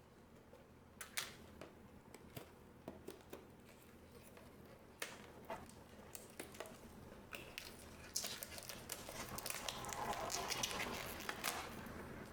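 Packaging of a trading card booster box being handled: scattered taps and clicks, then plastic wrapping crinkling more steadily from about eight seconds in.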